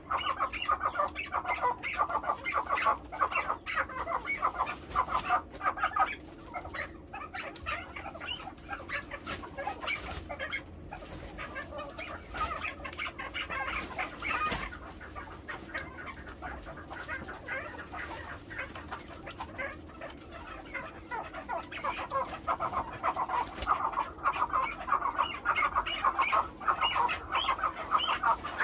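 Farm-raised chukar partridges calling in rapid, clucking runs of short notes, louder for the first several seconds and again near the end, softer in the middle.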